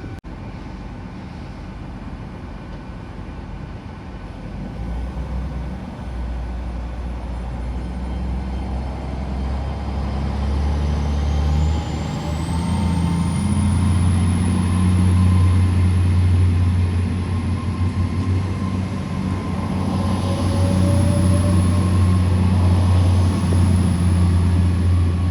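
Diesel locomotive engine running under power and growing louder. Its deep drone steps up in pitch about halfway through. A high whistle rises in pitch and then holds steady.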